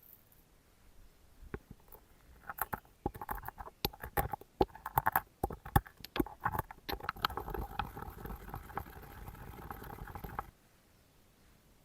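Cooking noises: a run of irregular clicks and crackles over a light hiss, busiest in the middle, cutting off abruptly near the end.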